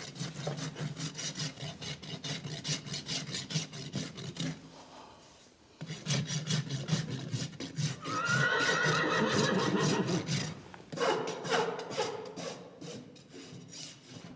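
A farrier's rasp files a horse's hoof in quick repeated strokes, with a short pause partway through. About eight seconds in, a horse whinnies for about two seconds, the loudest sound here, and a shorter whinny follows a moment later while the rasping carries on.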